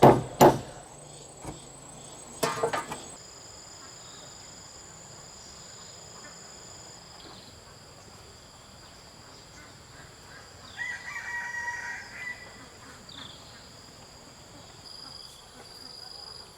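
A rooster crows once, about eleven seconds in, over steady high-pitched insect buzzing. At the very start there is a last hammer blow from a run of strikes, and a quick cluster of knocks follows at about two and a half seconds.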